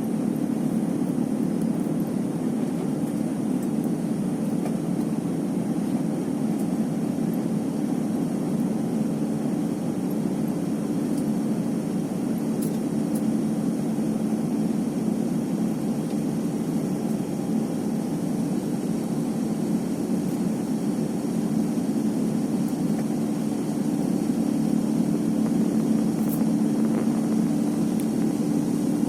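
Airbus A350-900's Rolls-Royce Trent XWB jet engines running, a steady low hum that grows a little louder near the end.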